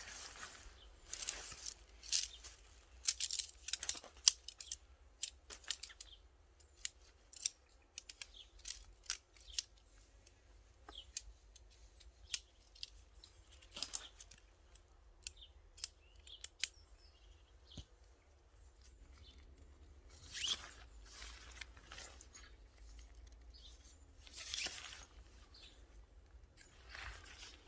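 Many sharp clicks and snips mixed with short rustling swishes, busiest in the first few seconds and coming back near the end: camping gear being handled while a tent and camouflage net are set up.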